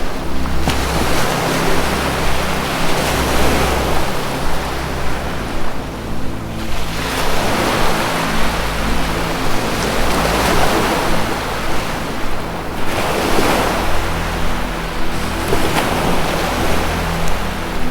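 Ocean surf, the wash of waves swelling and fading every few seconds, over a low sustained music drone.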